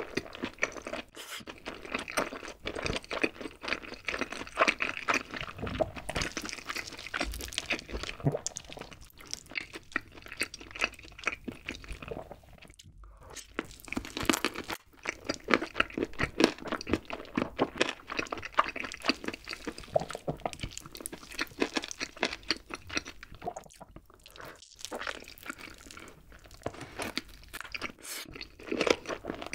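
Close-miked biting and chewing of a spicy barbecue-glazed grilled chicken leg: a steady run of small crunches, clicks and mouth smacks, with a short lull about thirteen seconds in.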